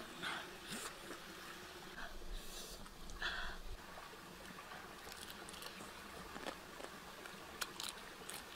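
A person eating a grilled duck egg: soft chewing and mouth sounds, with scattered small lip-smacking clicks.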